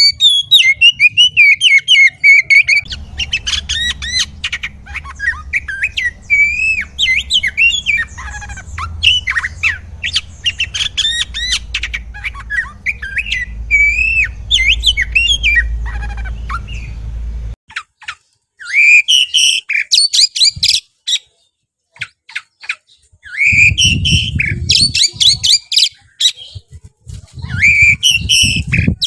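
Oriental magpie-robin (kacer) singing a fast, varied song of whistled and harsh notes, in separate takes with a short break about two-thirds of the way through. A low hum lies under the first long stretch.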